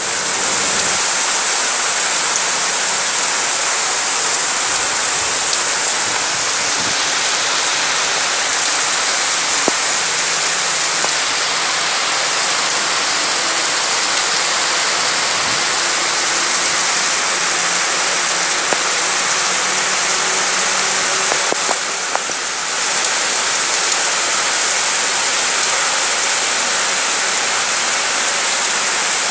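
Heavy monsoon rain pouring down steadily: a dense, even hiss that dips slightly for a moment about three-quarters of the way through.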